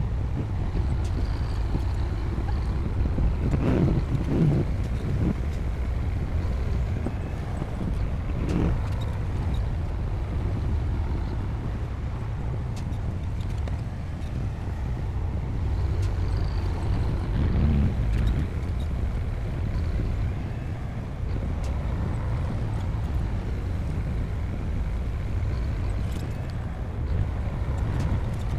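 D60P bulldozer's diesel engine running with a steady low rumble. It surges louder a few times, about four, eight and eighteen seconds in, as the machine works.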